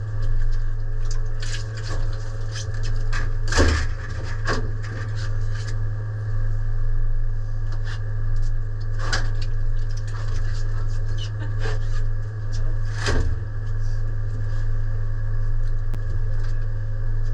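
A steady low machine hum with scattered knocks and clattering over it, the sharpest knocks about three and a half seconds in and again about thirteen seconds in.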